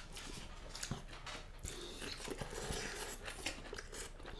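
Close-up eating sounds: people chewing and biting food, with soft, irregular wet mouth clicks and light crunches.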